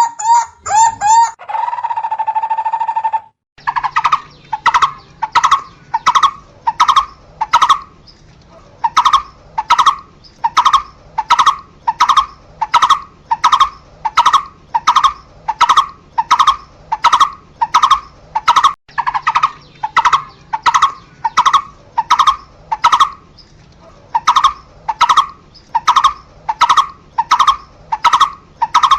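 Barbet calling: a single hollow note repeated steadily about twice a second. It follows a sudden switch from a different, more drawn-out call early on.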